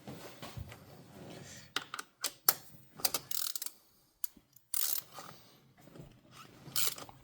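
Oil filter wrench working on a seized oil filter, giving irregular metallic clicks and short scrapes as it grips and turns.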